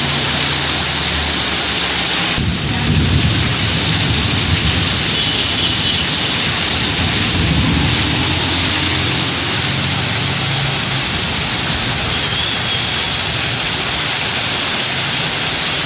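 Heavy rain falling steadily, a loud even hiss. Road vehicles passing on the wet street hum underneath it near the start and again about midway.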